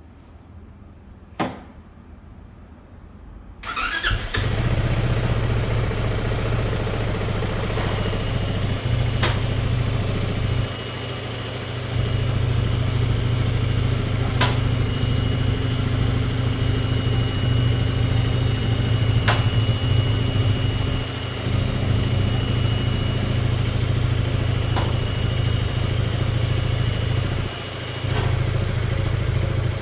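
A scooter engine is started a little under four seconds in, after a single click. It then idles steadily, with two short dips in level and a few sharp ticks.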